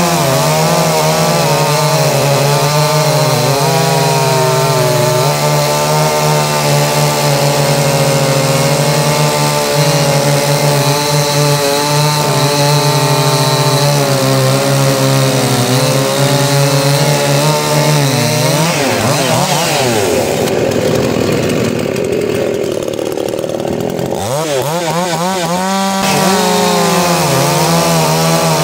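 Two-stroke chainsaw running at high revs while cutting wood, its pitch wavering under load. About two-thirds of the way through the engine drops to a lower, quieter run for a few seconds, then revs back up and carries on cutting.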